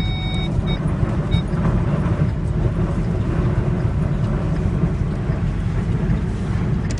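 Strong tornado winds buffeting a stopped vehicle, heard from inside the cabin as a loud, steady low rumble. A few short high beeps sound in the first second and a half.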